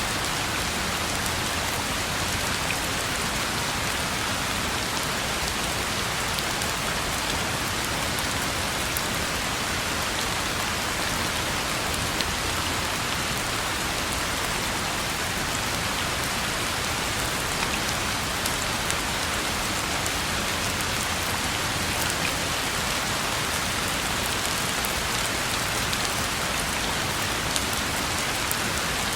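Steady rain falling on a road: an even hiss of rain with scattered individual drop ticks.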